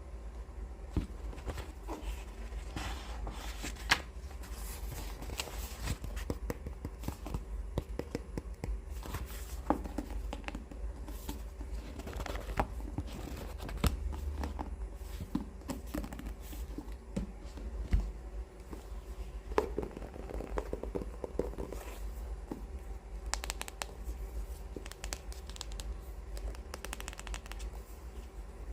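Hands handling books close to the microphone: irregular fingernail taps, scratching and rubbing on the covers, and paper rustling, over a steady low hum.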